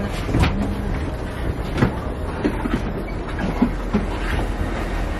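Inside a moving Amtrak Auto Train bi-level passenger car: a steady low rumble of the running train, with scattered clicks and knocks from the wheels and the car body.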